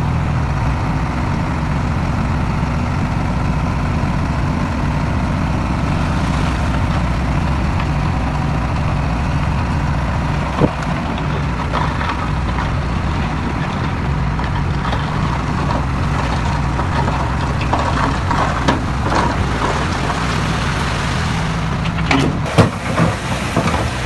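Heavy diesel earth-moving machinery running steadily, with a sharp knock about halfway through and a few more knocks near the end.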